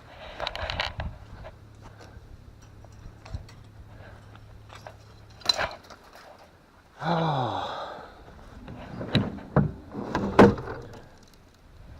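Irregular knocks and thumps from a cattle water trough being handled and swapped out, with a short falling groan a little past the middle.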